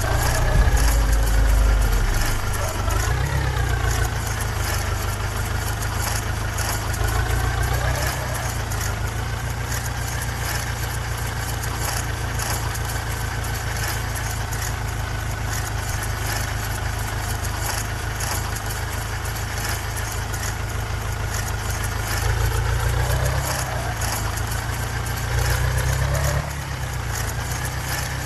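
Mahindra tractor's diesel engine running, revved up and down a few times in the first seconds and again near the end, running steadily in between.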